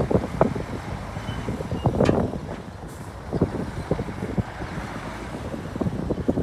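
Heavy earthmoving machinery working: a steady low engine rumble with many irregular metallic knocks and rattles, a louder clank about two seconds in.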